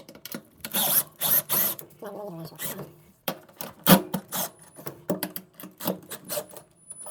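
Hands working on washer parts: irregular scraping, rubbing and clicking of plastic, rubber and metal, with a sharp knock about four seconds in.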